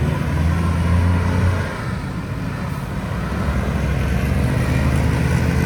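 City road traffic: engines running with a low hum and the rush of passing vehicles, loudest in the first second and a half, when a vehicle passes close, then easing to a steadier background.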